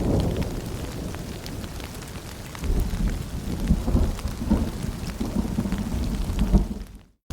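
Steady rain with scattered drops pattering on surfaces under rolling thunder: one rumble dies away, and a new roll begins about two and a half seconds in. The whole sound fades briefly to silence near the end.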